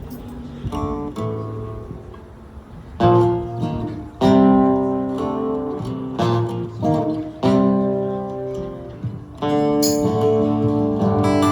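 Acoustic guitar playing strummed chords, with one chord struck every second or two; quieter at first, then fuller and louder from about three seconds in.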